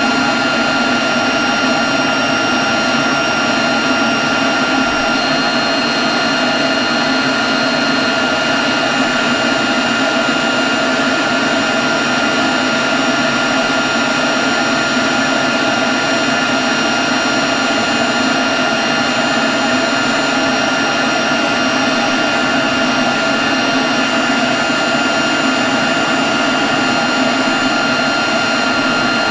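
Leaf blower running steadily at constant speed: an even rush of air with a steady whine on top, unchanging throughout.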